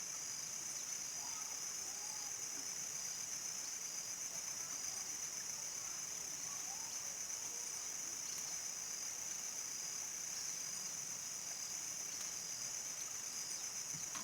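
A chorus of crickets singing in a steady, unbroken high-pitched drone, with a few faint, softer calls lower down.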